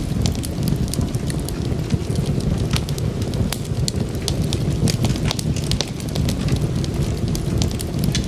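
Wood fire crackling in a fireplace: many small irregular pops and snaps over a steady low rumble of the flames.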